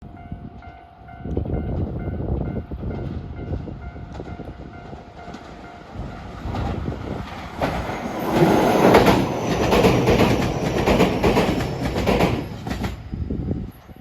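A train passing on rails with the clickety-clack of its wheels over rail joints, growing louder and peaking about eight to thirteen seconds in, then dropping off sharply. A faint steady whine is heard at the start.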